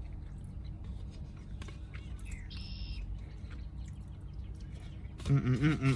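Low steady background rumble with a brief high chirp about two and a half seconds in. Near the end a man's voice starts in short, evenly repeated hums, about three a second.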